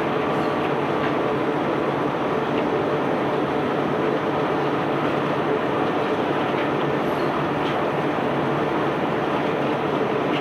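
Self-unloading barge's machinery running under load, a steady, even rumble with a few faint scattered ticks.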